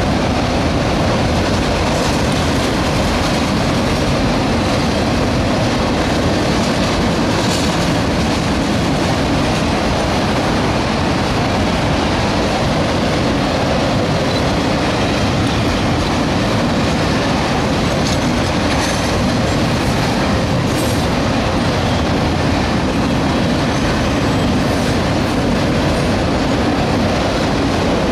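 Freight train of autorack cars rolling past: steel wheels on rail making a steady loud running noise, with a few brief high squeaks.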